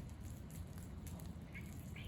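Wood campfire crackling, with scattered small pops and snaps over a steady low rumble.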